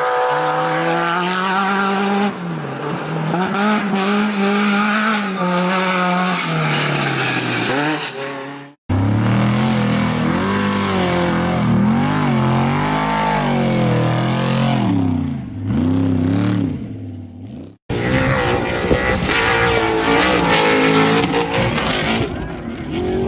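Trophy-truck race engines revving hard, the pitch climbing and dropping again and again as the trucks accelerate and lift off. The sound comes in three stretches, each cut off abruptly.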